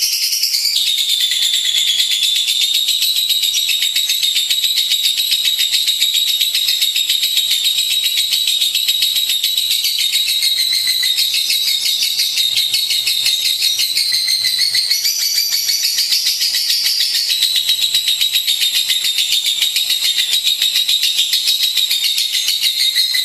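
Lovebird chattering in one long, unbroken run of rapid, high-pitched notes: the continuous trilling song that is used as a master recording to train other lovebirds.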